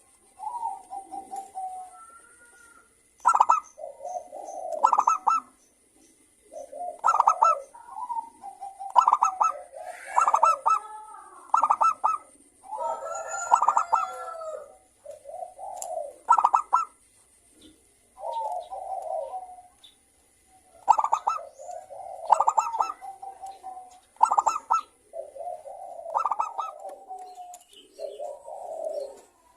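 Several zebra doves cooing and answering one another. They give repeated phrases of rapid, trilling coo notes, each about a second long, with short pauses between, and phrases overlap about ten to fifteen seconds in.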